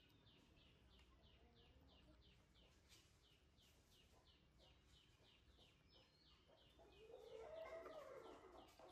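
Near silence with a faint background of short high chirps repeating about four times a second. A louder call with a wavering pitch rises in the last two seconds.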